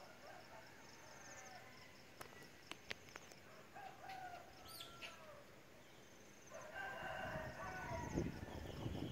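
Bird calls: a drawn-out call with a bending pitch about four seconds in, and a longer one from about six and a half seconds that runs almost to the end, with a brief high chirp between them.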